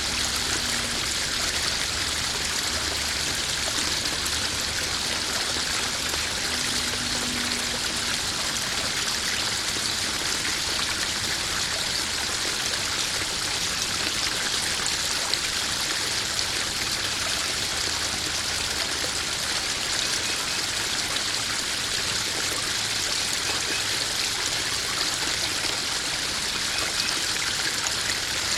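Small garden waterfall spilling steadily into a koi pond, an even splashing and trickling of running water.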